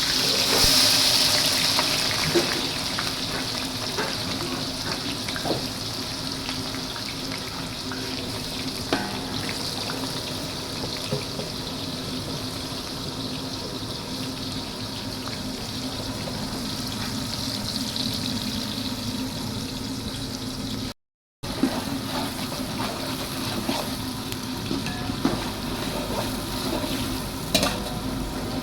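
A large batch of sliced onions frying in hot oil in a big pot. The loud sizzle eases over the first few seconds to a steady frying hiss, with scattered knocks and scrapes from stirring.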